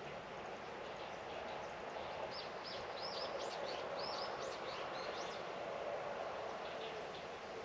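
A bird giving a quick series of short, high, arching chirps for a few seconds over a steady outdoor background hiss.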